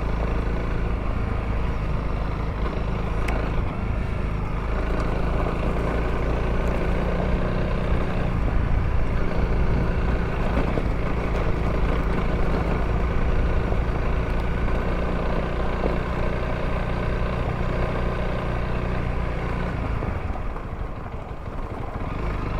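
Honda CRF300L's single-cylinder engine running under steady throttle while riding, easing off briefly near the end.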